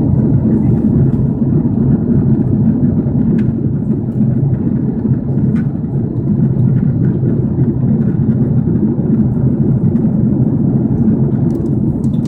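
Steady low rumble inside the cabin of an Airbus A330-300 airliner in flight: engine and airflow noise during descent, with a few faint clicks.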